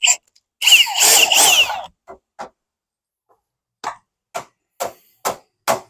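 A power drill runs for about a second in a short burst, its whine rising and falling in pitch. After a couple of light knocks, steady hammer strikes on wood begin, about two a second and growing louder.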